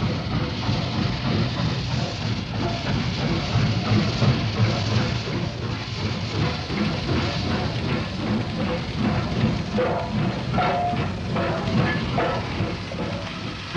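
Steam train running along the rails, a steady rumble with the clatter of wheels on the track.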